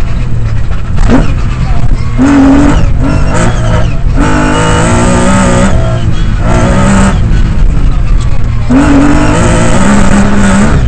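Lancia Stratos's V6 engine heard from inside the cabin at full rally pace. It revs hard, cuts off briefly several times on gear changes and lifts, and climbs again each time.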